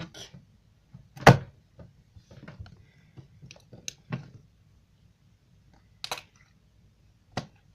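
Jiggly foam-bead slime being poked and squished by hand: scattered sticky clicks and pops, the loudest about a second in, with a few more spread through the rest.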